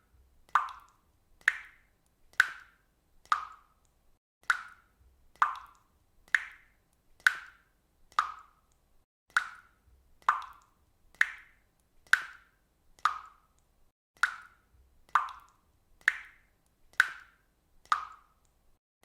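Water dripping steadily, about one drop a second. Each drop lands with a short, pitched plop.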